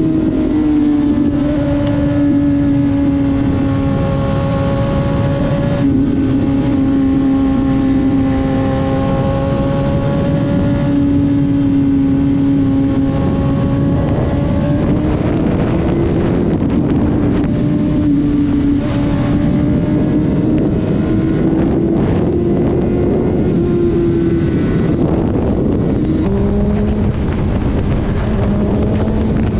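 Vehicle engine running at highway speed, a steady note that drifts slowly up and down with the throttle over road and wind noise. Near the end the note drops sharply in pitch, as at a gear upshift.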